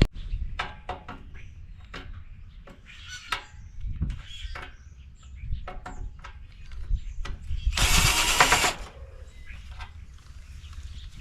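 Scattered metal clanks and knocks from taking apart an air conditioner condenser unit for scrap, with one loud, harsh rasping noise lasting just under a second about eight seconds in.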